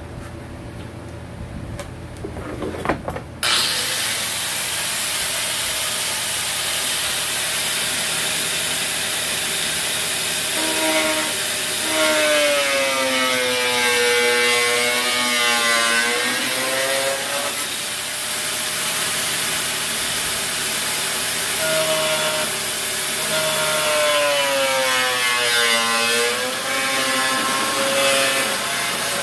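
A power saw cutting, starting up suddenly a few seconds in and then running steadily. Twice it gives a squeal that dips in pitch and rises again.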